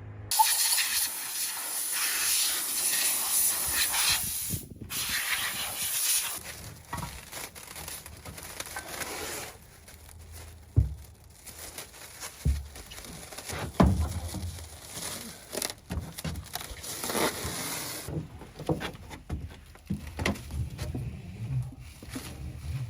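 Spray hissing onto a pulled race engine as it is cleaned with degreaser and water: one long spray, then shorter on-and-off bursts, with a couple of sharp knocks along the way.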